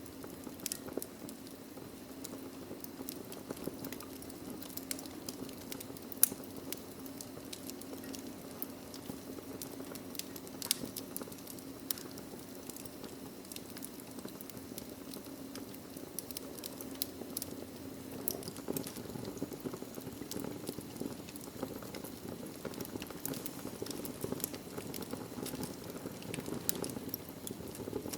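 Wood fire burning in a fireplace: a steady low rush of flame with scattered sharp crackles and pops from the burning logs, a few pops louder than the rest.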